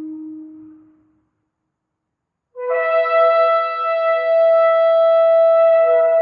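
Shofar (ram's-horn trumpet) blasts. A lower held note fades out in the first second. After a short silence, a new loud blast starts about two and a half seconds in: it begins low, jumps up to a higher note and holds it steadily.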